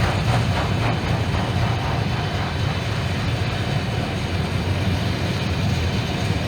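Norfolk Southern freight train passing close by: a steady, loud, heavy rumble of locomotives and rolling cars on the rails.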